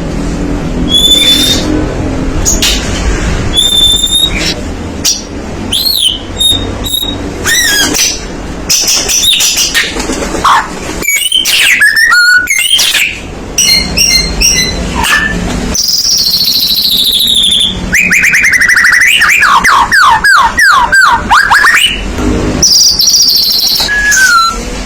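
White-rumped shama (murai batu) singing vigorously: a varied stream of loud whistles, sliding notes, fast trills and chattering phrases. A steady low rumble runs underneath.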